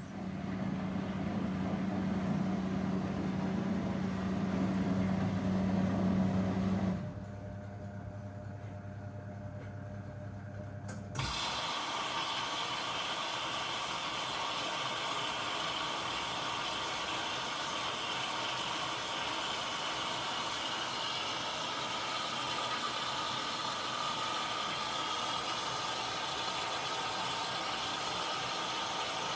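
Zanussi washing machine between rinses. The drain pump hums steadily and stops about seven seconds in. A few seconds later water suddenly starts rushing in through the inlet and keeps flowing steadily.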